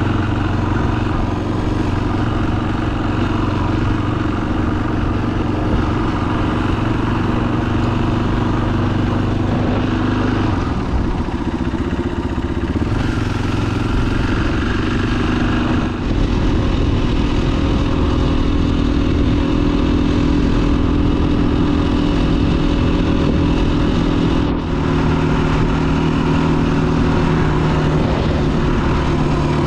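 2021 KTM 500 EXC-F's single-cylinder four-stroke engine running under way, its pitch stepping up and down several times, with brief dips about halfway through and again near the end.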